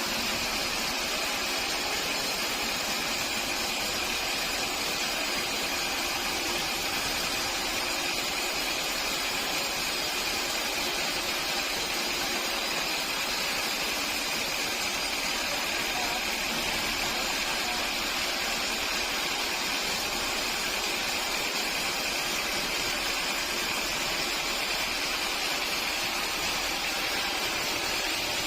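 Sawmill machinery running steadily: an unbroken mechanical noise with a faint steady whine, no cuts or knocks standing out.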